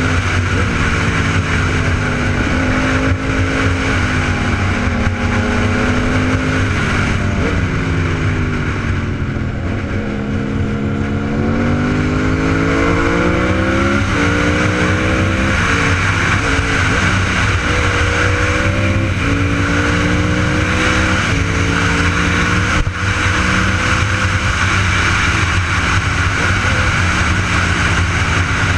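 Superbike engine under way, its pitch rising and falling again and again with throttle and gear changes, over a steady rush of wind and road noise.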